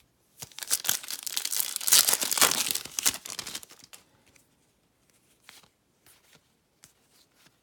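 A foil baseball card pack being torn open, crinkling loudly for about three seconds, followed by a few faint ticks as the cards are handled.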